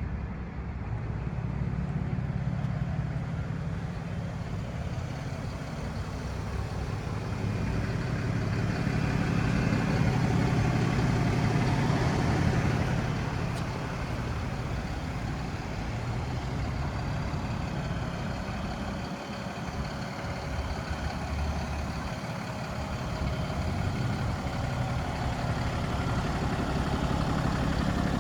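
Ram 5500 heavy-duty truck engine running, swelling louder for a few seconds about a third of the way in, then easing back and building again near the end.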